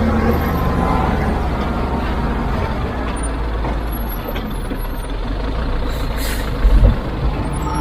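Heavy diesel construction machine running steadily under load, with a short hiss about six seconds in and a couple of heavy low thumps just after it.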